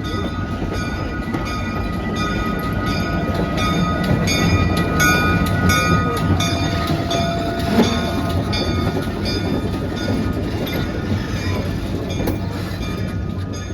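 Vintage passenger train at a station: a steady low rumble with sustained tones and a regular ringing repeating about twice a second.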